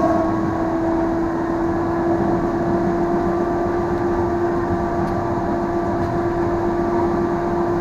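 Tram running along its rails with a steady hum from its motors over the rolling rumble.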